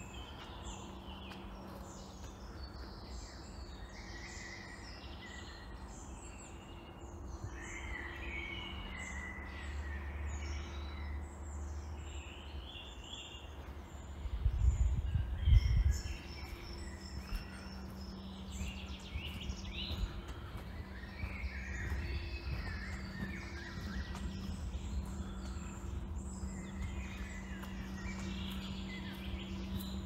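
Several woodland birds singing and chirping, many short overlapping calls, over a faint steady low hum. About halfway through, a loud low rumble lasts a second or two.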